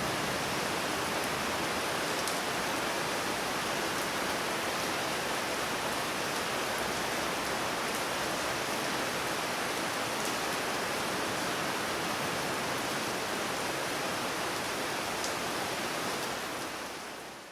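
Steady gentle rain, an even hiss with a few faint drop ticks, fading out near the end.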